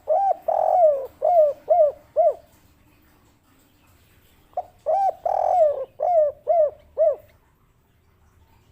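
Spotted dove (derkuku/tekukur) cooing its 'kuk 3' song twice: each phrase is a short opening coo, a longer drawn-out note, then three short closing 'kuk' notes. The second phrase starts about four and a half seconds in.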